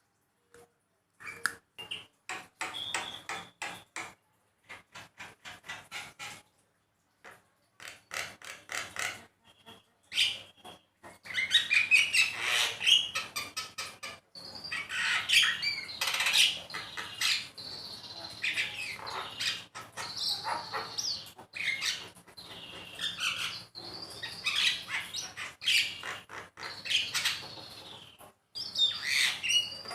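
Javan myna calling: rapid runs of dry clicking chatter at first, then from about ten seconds in a louder, denser mix of harsh chattering and whistled calls that glide in pitch.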